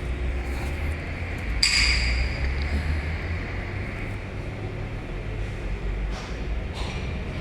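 Metal clinks from hand tools working on an excavator's hydraulic cylinder seal, over a steady low rumble. A louder scraping noise comes about two seconds in.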